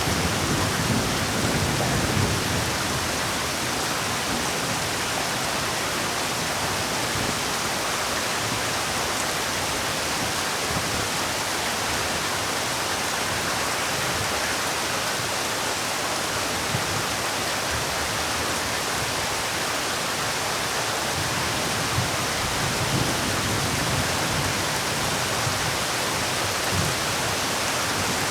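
Heavy rain falling in a steady, dense hiss, with a few low swells near the start and again about three-quarters through.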